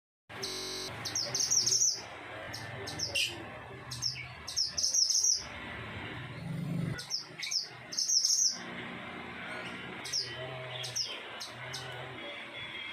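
A mantenan gunung songbird singing in short, high chirping phrases of about half a second each, repeated several times with pauses between. Its song is still short rather than a long, full song.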